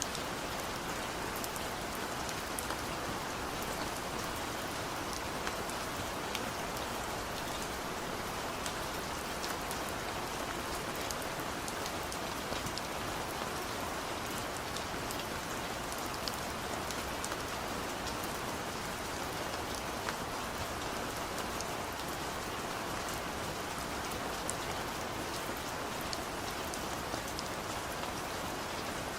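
Steady rain falling: an even hiss scattered with many small, sharp drop ticks.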